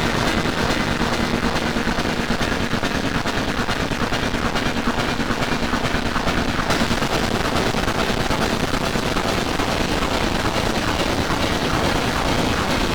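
A dense, harsh wall of many layered, heavily distorted band tracks playing at once, full of rapid rattling pulses. It turns brighter and harsher about halfway through.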